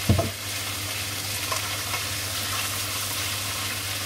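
French beans and garlic sizzling steadily in a frying pan, with a thump right at the start and a few light knocks as a wooden spatula stirs them.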